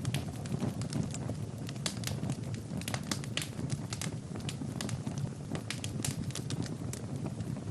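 Wood fire burning in a fireplace: irregular sharp crackles and pops from the burning logs, several a second, over the steady low rumble of the flames.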